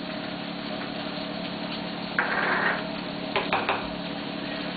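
Stir-frying in a wok: a short rush of noise about two seconds in, then a few quick knocks of the spatula against the wok, over a steady hum.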